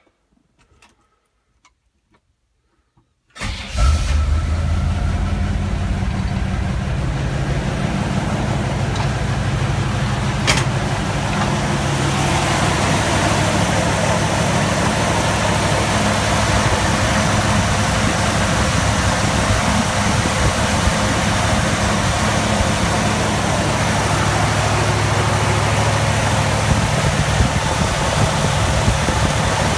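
Chevrolet 350 small-block V8 in a 1955 GMC truck starting about three seconds in, then idling steadily. A single sharp click comes about ten seconds in.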